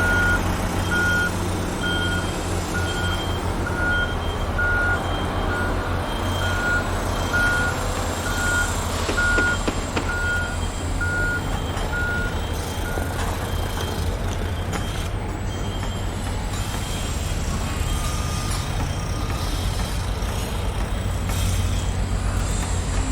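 Reversing alarm on a heavy construction vehicle, beeping about once a second over the steady low rumble of a diesel engine; the beeping stops a little past halfway while the engine keeps running.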